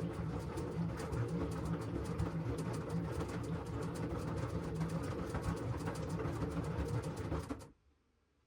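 LG washing machine running, with a steady motor hum and a fast, continuous clatter. It cuts off suddenly near the end.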